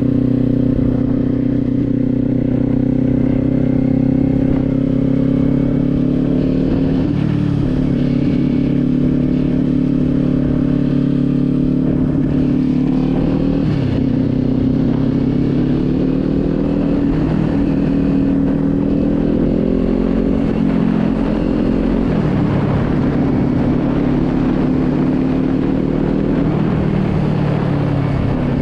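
Motorcycle engine running at a steady cruise, its pitch dipping briefly and recovering about four times.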